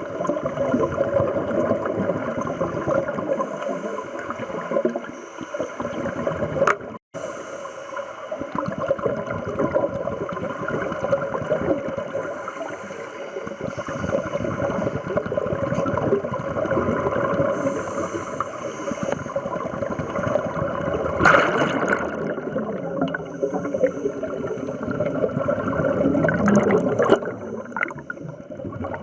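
Underwater gurgling and bubbling of scuba divers' exhaled bubbles, over a steady hum. It cuts out for an instant about seven seconds in, and grows briefly louder twice near the end.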